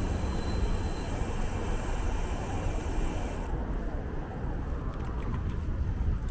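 Steady rumble of wind on the microphone mixed with street traffic noise while riding a bicycle. The high hiss drops away suddenly about three and a half seconds in.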